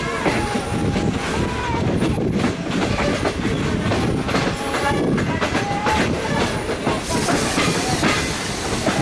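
Passenger train car rolling slowly out of a station, its wheels clacking irregularly over rail joints and points over a steady rumble. A louder rushing hiss joins near the end.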